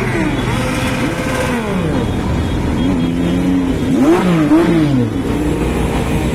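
Motorcycle engines revving, their notes rising and falling again and again. Two or more engine notes overlap and cross each other between about three and five seconds in.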